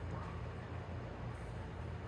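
Steady low hum under a faint, even background hiss.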